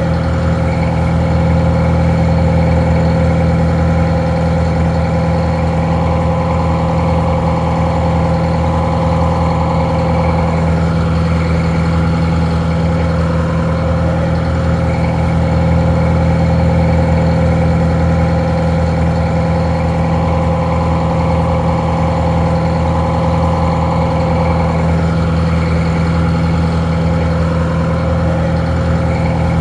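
Detroit Diesel 4-71 two-stroke, four-cylinder diesel engine idling steadily, sounding a little muffled.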